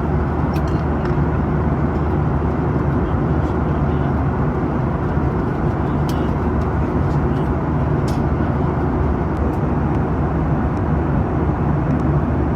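Steady in-flight cabin noise of a Boeing 737-800, heard from a seat above the wing: the even rush of airflow over the fuselage mixed with the low drone of its CFM56-7B turbofan engines, with a few faint clicks in the cabin.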